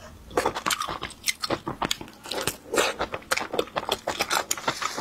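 Close-miked eating: biting and chewing pieces of spicy bullfrog, with wet mouth clicks and crunching coming in an irregular, rapid stream.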